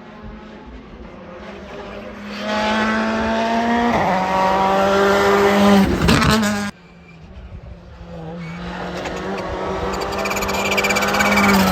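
Hill-climb race car engines at high revs, pitch and loudness rising as a car approaches and passes. An abrupt cut about seven seconds in switches to a second car building up the same way.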